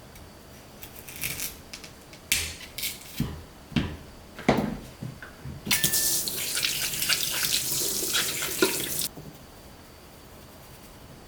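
A few knocks and clinks, then a water tap runs for about three seconds and is shut off abruptly.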